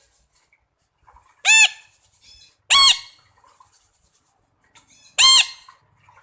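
Domestic fowl calling: three short, sharp squawks, the second and third about a second apart and the last after a longer gap.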